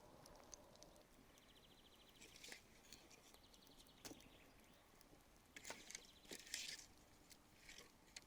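Campfire crackling faintly, with scattered sharp pops and a denser cluster of crackles about six seconds in. A quick, high, rapid trill sounds about two seconds in.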